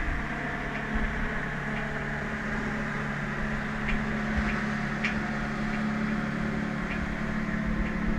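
A steady machine hum over an even rushing noise, with a few faint ticks.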